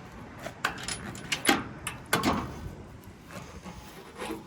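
Dropside truck's side-panel catches being released and the sides let down: a string of metallic clicks and clanks, the loudest about a second and a half and two seconds in.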